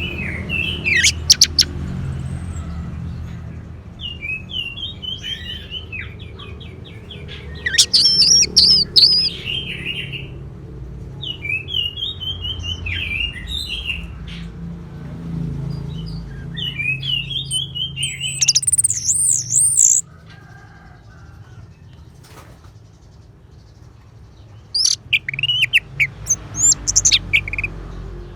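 Orange-headed thrush (anis merah) singing: short warbled phrases repeated every few seconds, alternating with louder, higher whistled notes. A low background hum under the song cuts off about two-thirds of the way through.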